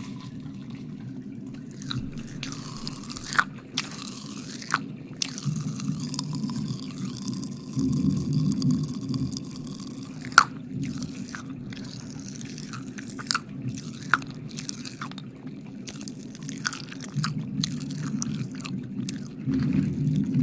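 ASMR wet mouth sounds close to the microphone: sticky clicks and smacks of licking, with a few stretches of breathy hiss, over a steady low hum.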